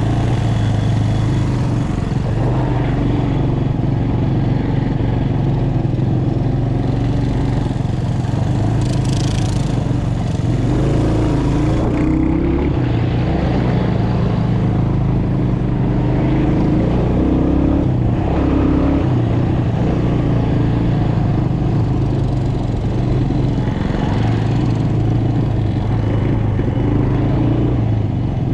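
Small single-cylinder mini bike engines running steadily, their pitch shifting up and down a little now and then.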